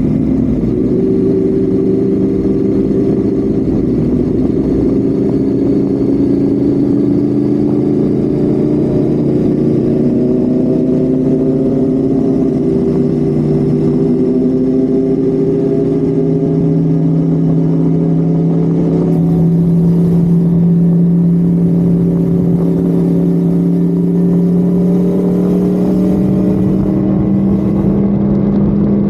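Honda Civic FD's engine heard onboard, running hard at speed with its pitch climbing slowly and steadily, over road and wind noise.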